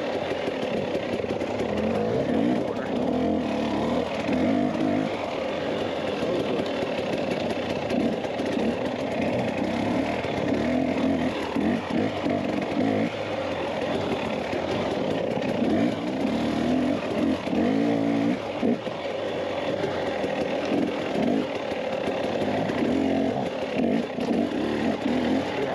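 Dirt bike engine running under way, its pitch repeatedly rising and falling with the throttle.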